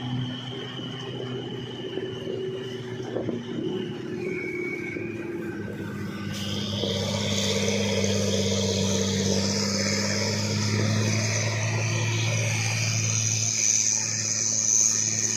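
Heavy truck's diesel engine running under load. It gets louder about six seconds in, with a high whine over it.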